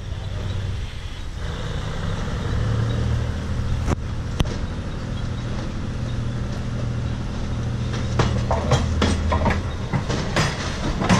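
Passenger coaches rolling slowly past during shunting, with a steady low diesel locomotive drone underneath. A couple of single wheel knocks come about four seconds in, and from about eight seconds in the wheels clatter repeatedly over rail joints and points as the cars pass close by.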